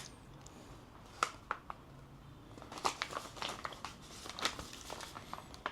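A bánh mì's wrapper crinkling as it is handled, giving an irregular scatter of faint crackles.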